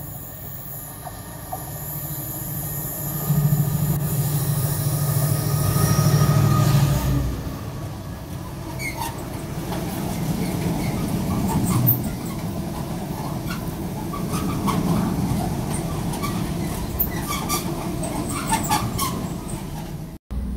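Diesel freight locomotive approaching and passing, its engine loudest from about three to seven seconds in. A long train of cement tank wagons then rolls past with scattered wheel clicks and short wheel squeals.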